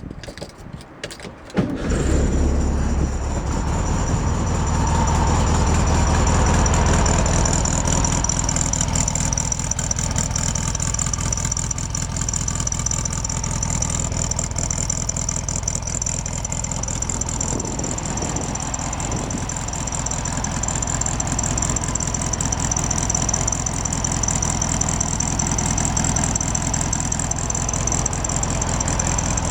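1969 Volkswagen Karmann Ghia's air-cooled flat-four engine started from cold: a short spell of cranking, then it catches under two seconds in and runs at a raised idle that eases down after about eight seconds to a steady idle.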